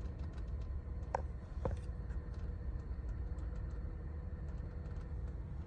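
Rapid, faint relay-like clicking from behind a 2011 Honda Odyssey's instrument panel, with two sharper clicks a little over a second in, over the steady low rumble of the van's cabin. The owner suspects a faulty relay; the noise comes and goes at random.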